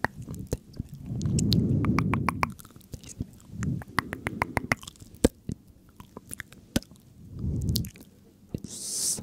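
Close-miked ASMR mouth sounds: wet clicks and smacks in quick irregular runs, broken by a few louder low, muffled swells, with a short hiss near the end.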